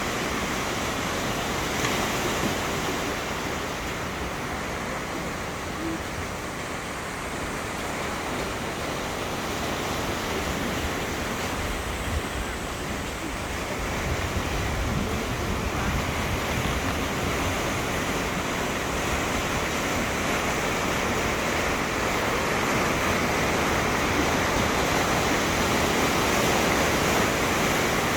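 Sea waves washing onto the shore, a steady rushing that swells slowly and grows a little louder in the second half.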